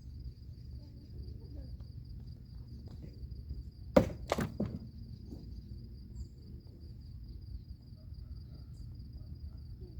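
Three sharp knocks in quick succession about four seconds in, the first the loudest: pieces of wood dropped onto a bonfire pile. A steady, high cricket trill runs underneath.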